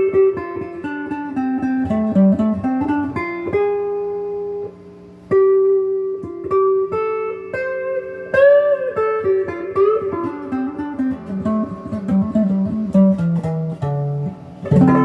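Stock Donner DLP124 electric guitar on its neck pickup, with factory strings, played through the clean channel of a Crate GX15 amp: a run of single notes, with a short break about five seconds in and a note bent up in pitch a little after eight seconds.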